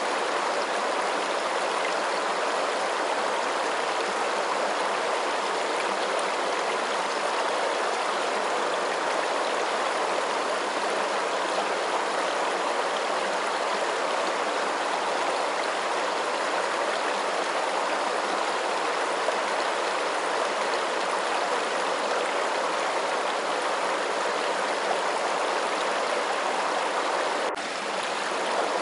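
Steady flowing water, an even rushing hiss, with a brief dip in level near the end.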